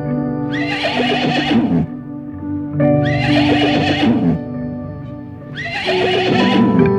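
An equine calling three times, about two and a half seconds apart, each loud call falling in pitch, over background music with steady held notes.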